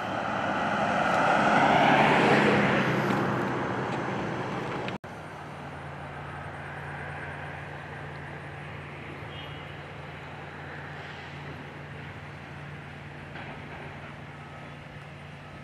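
A motor vehicle passing close by, loudest about two seconds in and then fading away. After a sudden break about five seconds in, a steady low engine hum goes on quietly.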